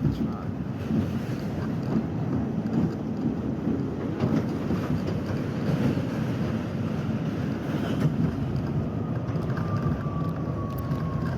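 R68 New York City subway train running on the B line: a steady rumble of the train in motion. Near the end a faint whine joins it, falling slightly in pitch.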